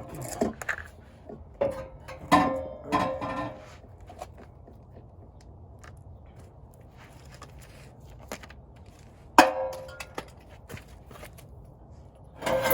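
Clanks and knocks of a loose steel car exhaust system being handled and set down, each hit ringing briefly: a run of knocks in the first few seconds, one sharp clank about nine seconds in, and another near the end.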